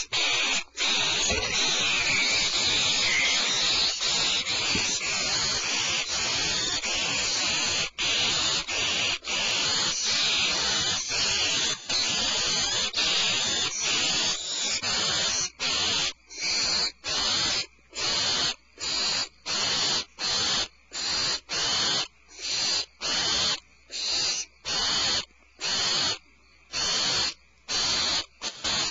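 Barn owls hissing in the nest box: a continuous hoarse hiss for about the first half, which then breaks into a steady run of separate hisses, about one and a half a second.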